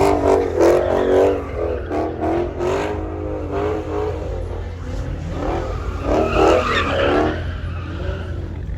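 Car tires squealing in several wavering bursts over a steady low engine rumble, loudest at the start and again about six seconds in.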